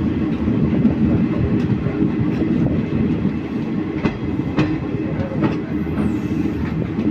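Indian Railways ICF passenger coach running on the rails: a steady rumble of wheels and bogies, with a few sharp clacks as the wheels pass over rail joints about four to five seconds in.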